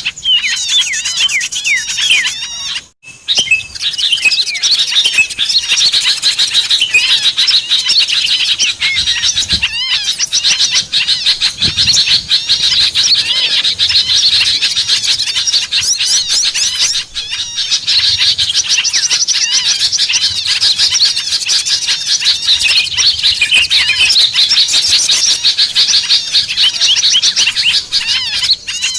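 Many small songbirds chirping and chattering at once in a dense, overlapping, excited chorus: a bird-lure recording of a noisy small-bird flock. There is a brief break about three seconds in.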